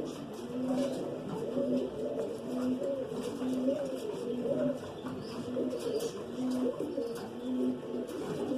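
Pigeons cooing, several overlapping, a short low coo repeating about once a second under rising-and-falling coos, with a few faint clicks.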